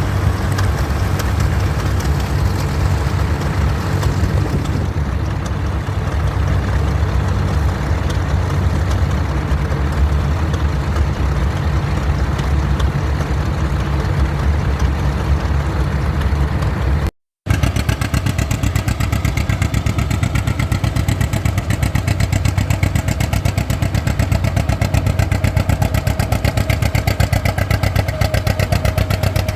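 Vintage tractor engine running steadily. It breaks off for a moment about halfway, then carries on with a clear, even firing beat.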